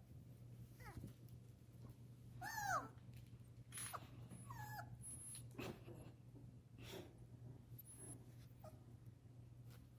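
Puppies whimpering during rough play, a few short high whines that fall in pitch, the loudest about two and a half seconds in, among light scuffling clicks. A faint steady hum runs underneath.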